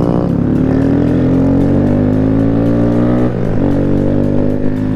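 Small single-cylinder Honda Grom motorcycle engine pulling under way, its pitch slowly rising as it accelerates. About three and a half seconds in, the note dips briefly, as at a gear change, then climbs again.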